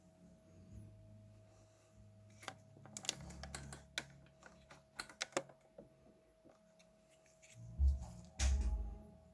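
Light clicks and taps of small parts and tools being handled, in several quick clusters. Two heavier low thuds come near the end.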